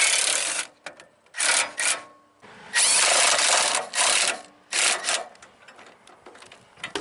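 Mechanical grinding in about five short runs, each half a second to a second long with pauses between, from a crank mechanism on the tow hitch being worked.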